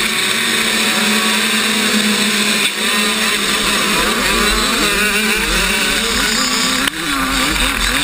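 Two-stroke 85cc motocross bike engine, running steadily at first and then revving up and down repeatedly from about three seconds in. There are two brief dips in loudness.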